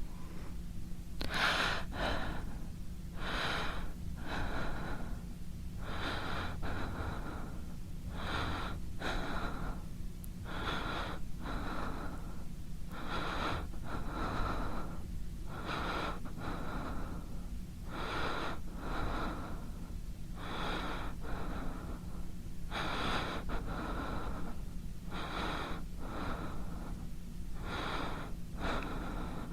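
A person breathing hard and fast through the mouth: quick in-and-out breaths in close pairs about every two seconds, over a steady low hum.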